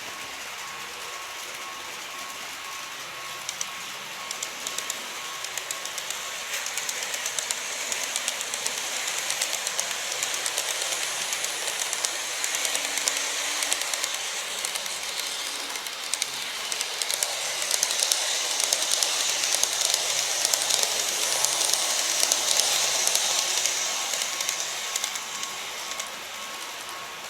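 Model train running past on a layout, its running noise and rapid clicking of wheels over rail joints growing louder a few seconds in, loudest in the second half, then fading away near the end.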